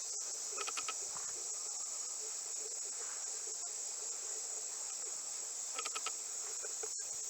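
Steady high-pitched insect chorus, like crickets, with a few faint short chirps about half a second in and again near six seconds.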